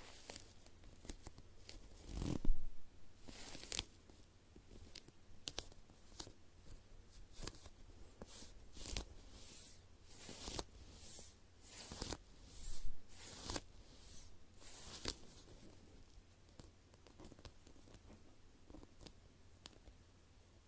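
High-rebound sponge squishy toy shaped like a slice of bread, with a tacky surface, being squeezed and rubbed by hand: a string of short, irregular rustles, the loudest about two and a half seconds in and again around twelve to thirteen seconds, growing sparse over the last few seconds.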